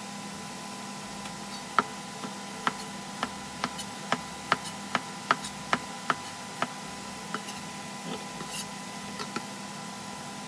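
A run of sharp taps or knocks, about two a second for several seconds, then a few scattered fainter ones, over a steady electrical hum.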